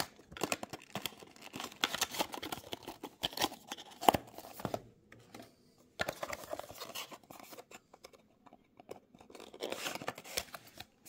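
Box and blister packaging of a diecast model car being handled and opened: irregular scraping, rustling and small clicks, with two short pauses.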